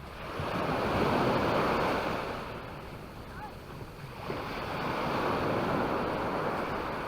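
Small sea waves breaking and washing up the beach, two swells of surf in a row, each rising and then fading.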